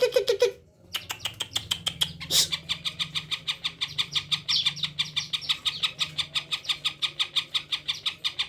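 Cucak ijo (green leafbird) singing close by: a loud harsh note at the start, then after a short pause a long, fast, steady run of sharp chattering notes, several a second.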